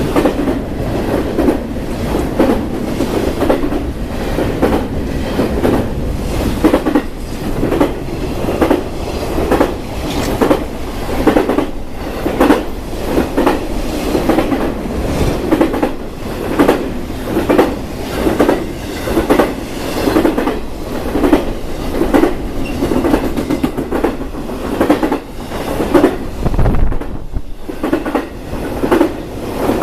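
BNSF intermodal freight train rolling past, its car wheels clicking over rail joints in a steady, repeating rhythm.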